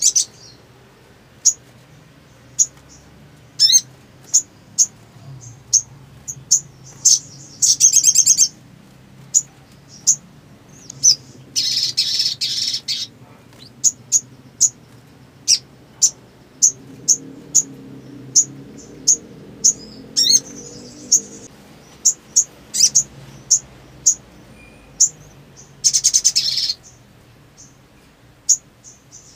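Little spiderhunter (sogok ontong) calling: a sharp, high chip note repeated about once or twice a second, broken by a few rapid chattering trills, the longest lasting about two seconds.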